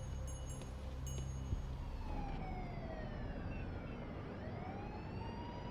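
A siren wailing, its pitch falling slowly and then rising again to hold steady, over a low steady rumble. A few brief high chime-like tinkles ring at the start.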